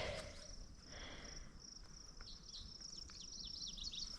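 Faint, steady high-pitched chirring of crickets or similar insects. A bird sings a run of short falling notes in the second half, and there is a brief knock right at the start.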